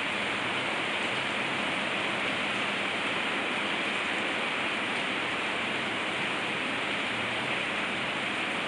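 Heavy rain pouring down, a dense, steady hiss of a tropical downpour on the ground and roof outside an open-sided terrace.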